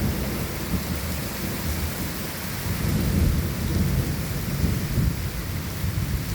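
Steady rain falling with rolling thunder rumbling underneath, the rumble swelling a few seconds in.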